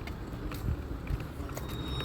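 Steady low rumble of a motor vehicle running, with scattered faint clicks.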